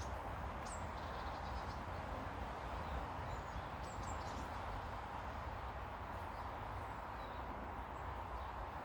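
A few faint, scattered bird chirps over a steady background rush.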